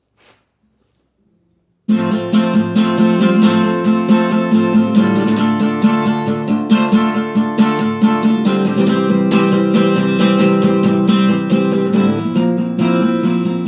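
Acoustic guitar starting about two seconds in and strumming steadily through the opening chords of a song.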